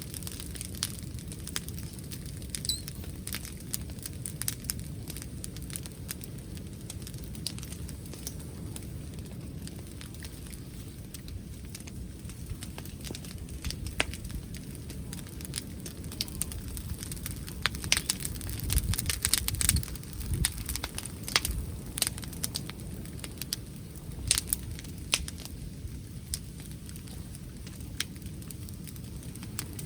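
Wood bonfire crackling, with many sharp pops that come thicker in the second half. Underneath is a low rumble of wind on the microphone, gusting louder about two-thirds of the way through.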